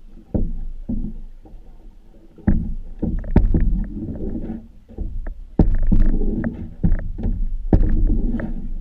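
A canoe being handled, with a series of irregular knocks and bumps on the hull over a low rumble that comes and goes.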